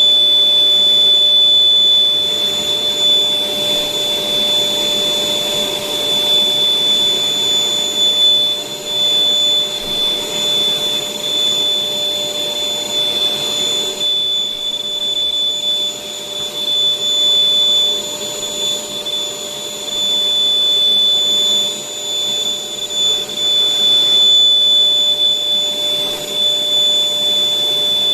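Electric air blower running steadily with a high whine, pumping air into a giant balloon.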